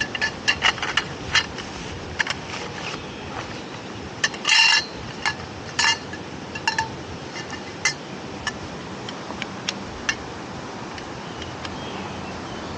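Hard kitchenware being handled, clinking with a ringing tone. There is a quick run of clinks at the start, a longer rattle about four and a half seconds in, then sparser clinks.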